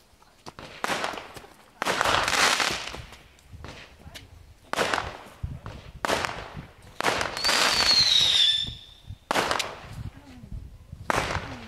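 Fireworks going off: about seven separate bangs and crackling bursts, each trailing off over up to a second, with a whistle falling in pitch from one of them around eight seconds in.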